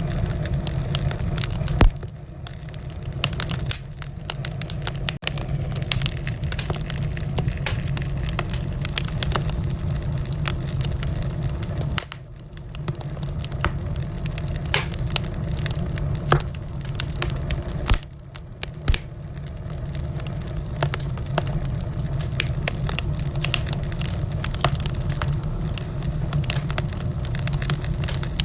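Fireplace fire crackling steadily, dense small pops over a low rumble, with a few louder pops.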